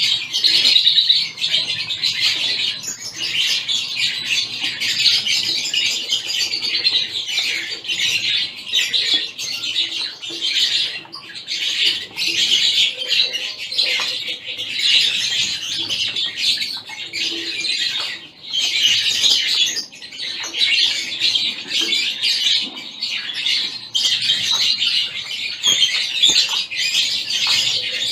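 A mixed flock of aviary finches, among them zebra finches and gold amadines, chirping over one another in a dense, continuous high chatter.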